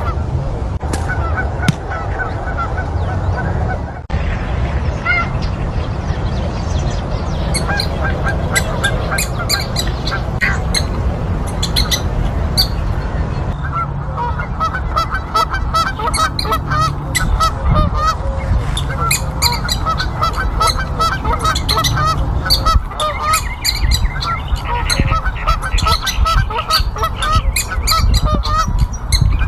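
Rapid series of short pitched animal calls, several a second, over a steady low rumble.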